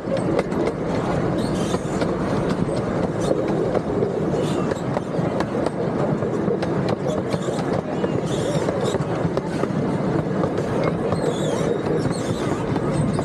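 Miniature park train's open passenger cars rolling along the track: a steady rumble of wheels on rail, with faint light clicks now and then.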